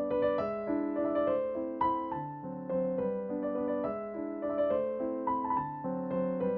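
Background music: gentle piano playing a melody.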